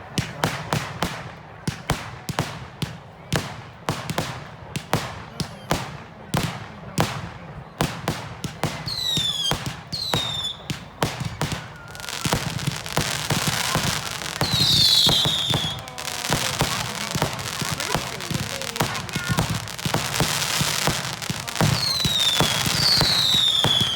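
Fireworks display: a rapid string of sharp bangs. From about nine seconds in, falling whistles join them, and from about twelve seconds a dense crackling fills the rest, with more whistles.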